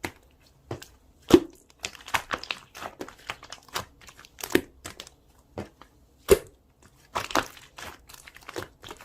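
Slime being pressed and stretched by hand, making irregular sticky pops and crackles, with two louder pops, one near the start and one about two-thirds of the way through.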